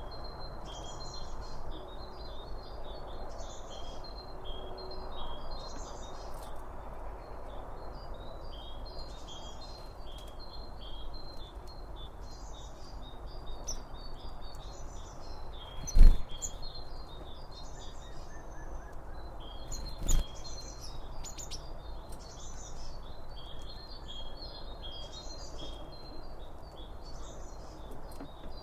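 Birds chirping in repeated short phrases over a steady outdoor background hiss. Past the middle come two sharp thumps about four seconds apart, the first the louder.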